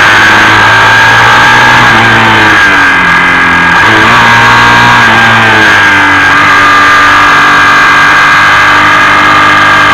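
BMW R1100RS boxer twin engine running hard under way. The revs drop about two to three seconds in, then climb again, over loud wind and road noise.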